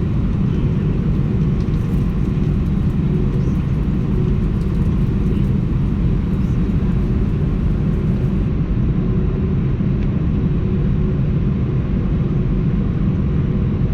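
Steady low rumble of an Airbus A319's engines and rushing air, heard inside the passenger cabin, with a faint steady hum.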